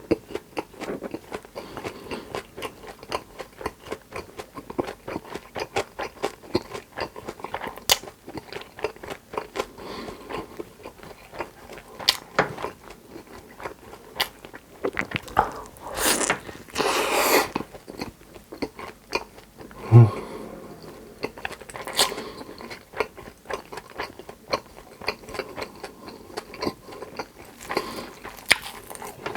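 Close-miked chewing and crunching of crispy food, with many small crackling bites. About sixteen seconds in comes a louder noisy stretch lasting a second or two, and a little later a short low hum from the eater.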